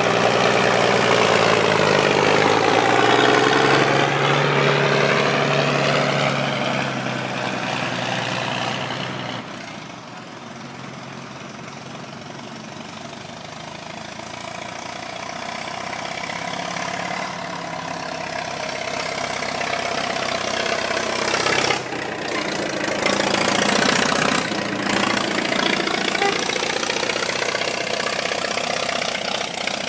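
Vintage diesel tractor driving past close by twice, its engine loudest at the start and again about twenty-two seconds in, with a quieter steady run between the passes.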